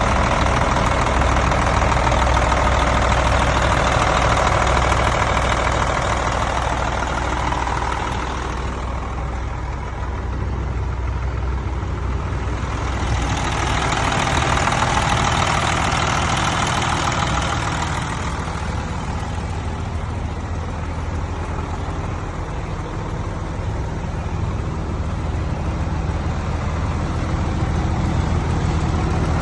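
Heavy truck diesel engine of a Freightliner FLD truck tractor idling steadily. It sounds louder and brighter for the first several seconds and again about halfway through.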